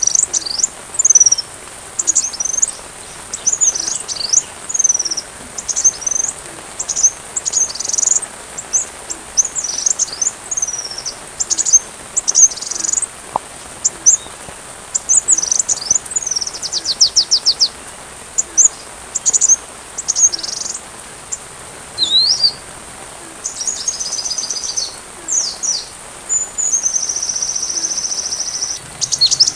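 Sunbird ('kolibri') song: a fast run of high-pitched chirps, sweeping notes and rapid trills, with a longer held trill near the end.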